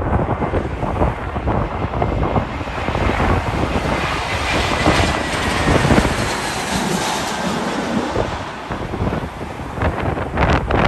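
Strong wind buffeting the microphone while a jet airliner passes on its landing approach, its engine noise swelling in the middle with a faint falling whine and then easing off.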